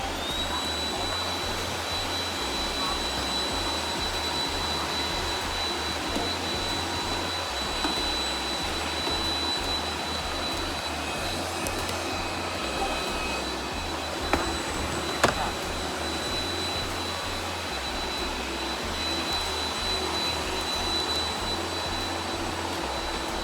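Robot vacuum cleaner running steadily, with its motor noise and a high, steady whine. Two sharp knocks come about a second apart midway through.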